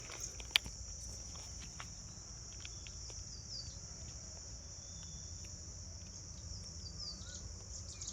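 Steady, unbroken, high-pitched chorus of insects such as crickets. There is a sharp click about half a second in, and a few faint short bird-like chirps come through near the middle and toward the end.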